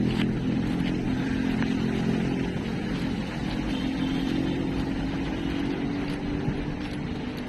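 Motor engine noise: a steady low engine hum that eases a little around the middle and swells again, over a haze of outdoor noise.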